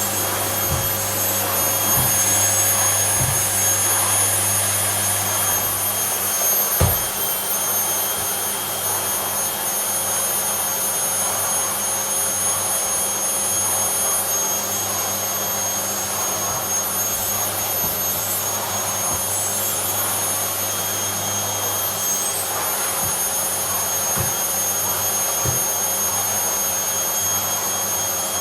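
Vacuum cleaner running steadily with a high whine over its rushing noise, with a few short knocks, the loudest about seven seconds in.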